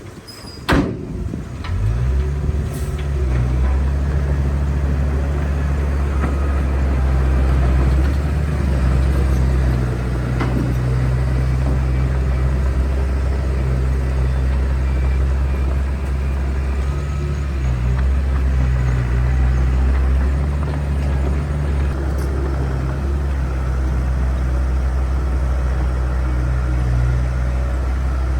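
A sharp knock, then a heavy diesel engine of earthmoving machinery comes in about two seconds in and runs steadily with a low drone.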